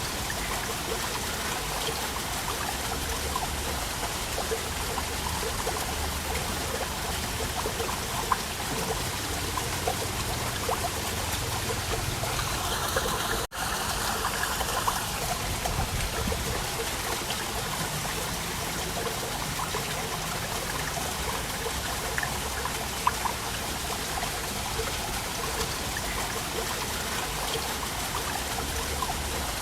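Waterfall: a steady rush and trickle of falling water, broken by a momentary gap about halfway through.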